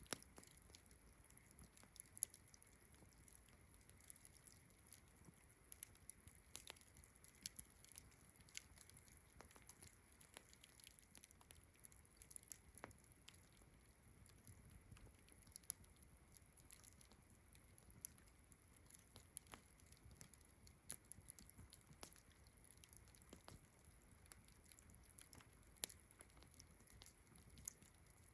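Faint campfire crackling: irregular small sharp pops and snaps from the burning wood, over a steady high-pitched chirring of crickets.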